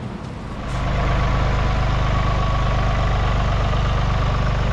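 Tractor engine running, getting louder a little under a second in and then running steadily.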